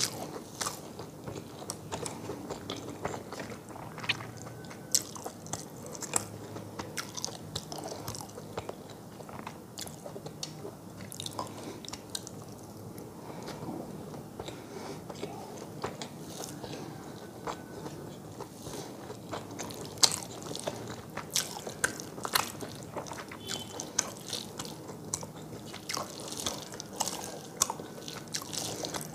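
Close-miked eating sounds: chewing and mouth clicks in an irregular scatter of sharp ticks, with fingers mixing rice and curry on a metal plate.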